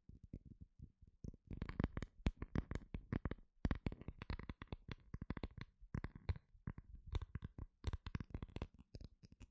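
Close-miked ASMR tapping and scratching: rapid, irregular runs of many quick taps a second, with short pauses between bursts.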